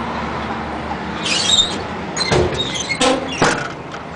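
Metal compartment door of a truck service body being handled: a scraping squeak, then several sharp metallic clicks and knocks as the door and its latch are worked shut.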